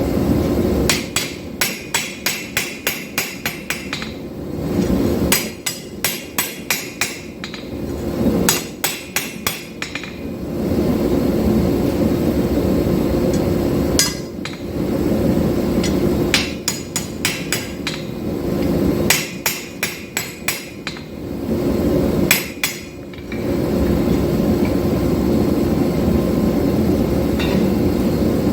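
Hammer striking hot 5160 steel on the anvil in quick runs of ringing blows, about four a second, broken by pauses, as the tang of an integral knife is drawn out. A steady forge roar fills the gaps between runs.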